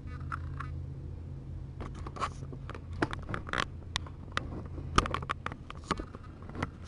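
Scratchy rustling with many sharp little clicks, the sound of kittens scrabbling about on their bedding as they are handled, over a steady low hum that stops about five and a half seconds in.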